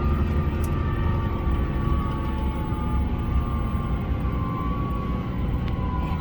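HOT7000-series diesel railcar running with a steady low rumble, and a thin whine that slowly falls in pitch.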